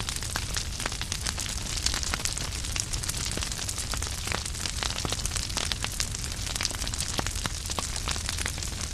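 Wood fire burning in a fireplace: a steady low rumble and hiss with frequent, irregular sharp crackles and pops from the burning logs.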